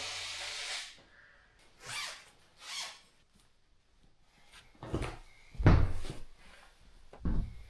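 A hiss-like noise that stops about a second in, two short rustles, then a series of heavy knocks and thumps, the loudest about six seconds in.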